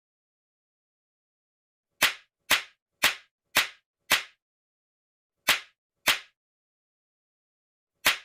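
Eight sharp slap-like smacks with dead silence between them: five about half a second apart, then two more, and one near the end.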